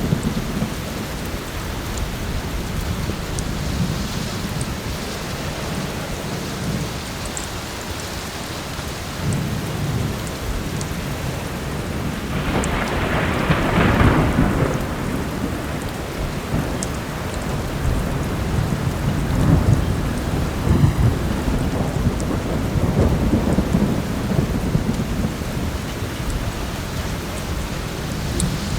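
Steady heavy rain with thunder rumbling again and again, the loudest roll about halfway through. A few sharp pops of a crackling wood fire come through now and then.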